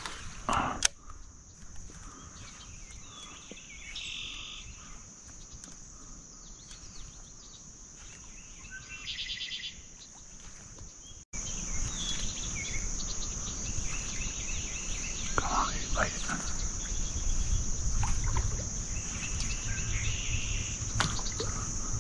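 Outdoor marsh ambience: a steady high-pitched insect drone with scattered bird chirps. About halfway through the sound cuts abruptly and comes back louder, with a low rumble underneath.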